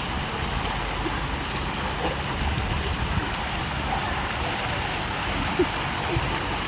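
Pool waterfall feature pouring and splashing steadily into the water.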